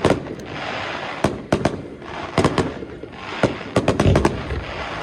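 Aerial fireworks shells bursting in quick succession: a dozen or more sharp bangs, some in tight clusters, with crackling hiss between them.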